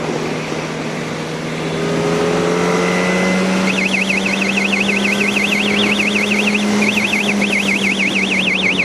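Yamaha R1 sport bike engine running steadily at a cruise, with wind rush, heard from the rider's seat. From about four seconds in, a high tone swings rapidly up and down, about five times a second, over the engine, with a short break partway.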